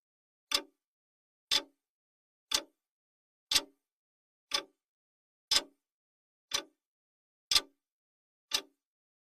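Countdown timer's clock-tick sound effect: a single sharp tick once a second, nine in a row, with silence between, counting off the seconds.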